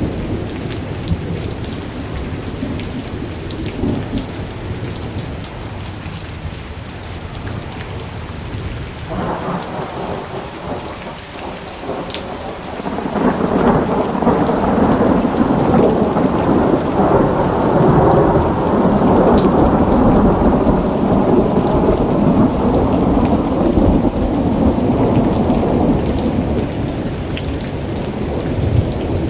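Thunderstorm: steady rain with scattered drop ticks and distant rumbling thunder. About halfway through, a louder, long rolling peal of thunder builds and rumbles on for over ten seconds before fading back.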